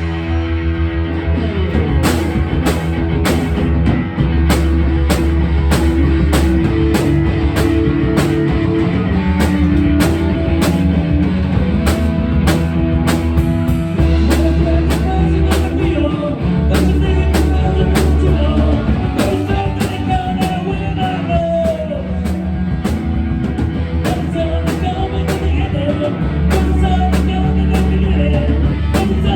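Live band playing rock music, with a steady drum beat under sustained bass notes and a melody line coming in later.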